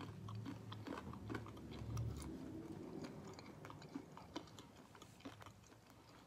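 A person quietly chewing food, with scattered soft, irregular mouth clicks.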